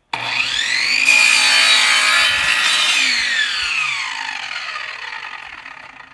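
Electric chop saw spinning up with a rising whine, its blade cutting through a composite decking board, then the motor released and the blade coasting down with a long falling whine that fades slowly.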